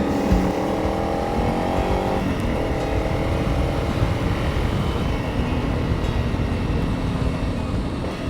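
Honda CRF300 Rally's single-cylinder four-stroke engine running under way, its pitch rising for about two seconds, then dropping and running steadily, with a rough low rumble beneath.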